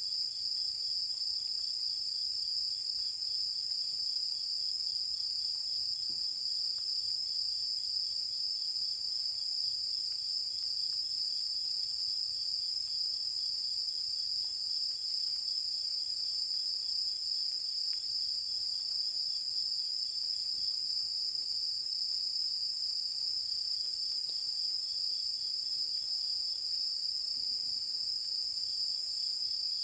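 A chorus of insects singing at night: a steady, high-pitched trilling, with a fainter rapid chirping underneath that stops for several seconds midway and then comes back.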